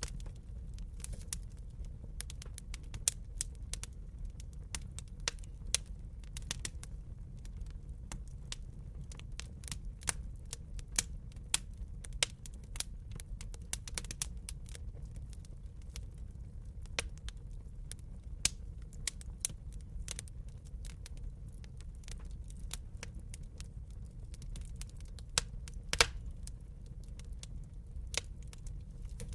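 Wood fire crackling in a fireplace: irregular sharp pops and snaps over a steady low rumble, with one louder pop about 26 seconds in.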